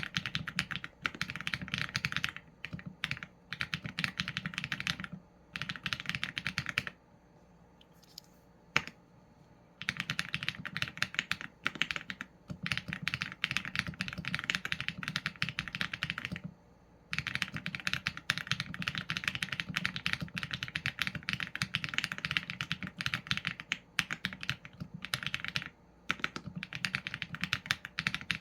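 Fast typing on a Qsenn A75 mechanical keyboard with Leobog Graywood v4 linear switches and PBT keycaps: dense runs of keystrokes broken by short pauses, the longest about seven seconds in, with one louder single stroke near nine seconds.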